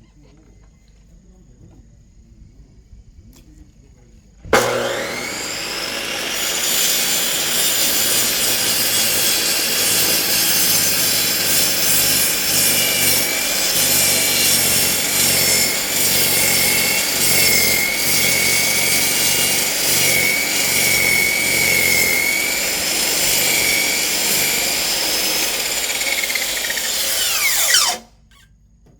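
Electric high-speed cutter (chop saw) with a wood-cutting blade, switched on about four seconds in and spinning up with a rising whine, then sawing through a thick firewood log with a steady high whine. It is switched off near the end and stops abruptly with a falling whine.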